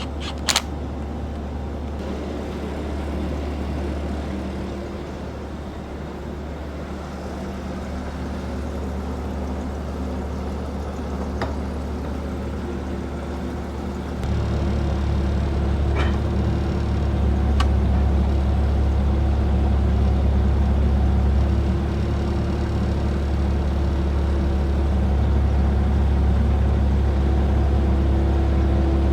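A steady low machine hum that gets louder about halfway through, with a sharp click just after the start and a few faint clicks later.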